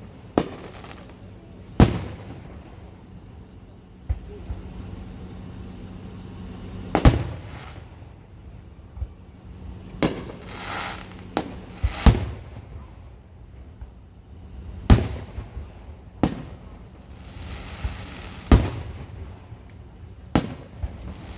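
Aerial fireworks shells bursting: about a dozen sharp bangs, one to three seconds apart, with a hissing crackle between some of them.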